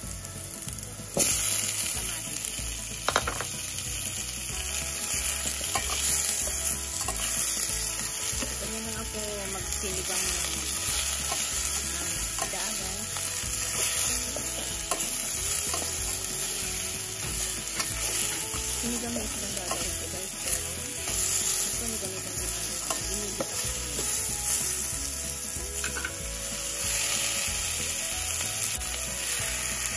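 Chopped tomatoes sizzling in hot oil with sautéed garlic, onion and ginger in a stainless steel pot: the sizzle jumps up sharply about a second in as they go in, then runs on while they are stirred with a spatula, with a few knocks against the pot.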